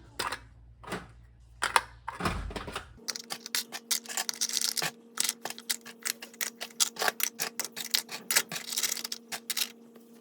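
Rapid, irregular clicking and tapping of small hard objects. About three seconds in, the background changes to a faint steady hum.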